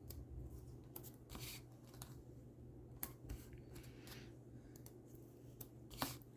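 Faint handling of paper and cardstock: light rustling, a few soft clicks and short scraping sounds while adhesive is put on the back of a paper cut-out.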